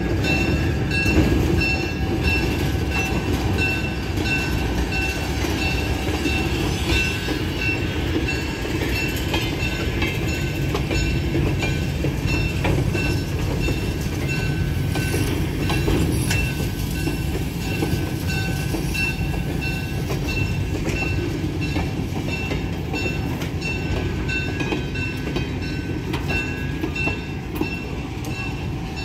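Freight cars of a slow-moving train rolling past close by: a steady rumble of steel wheels on the rails, with scattered clicks and a thin steady whine.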